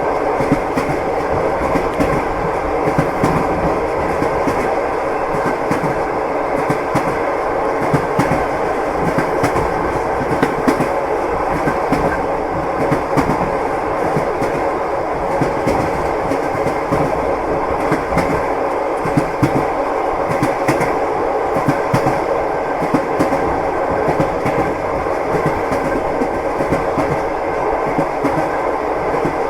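Steady rumble of a moving passenger train with frequent wheel clicks on the rail joints.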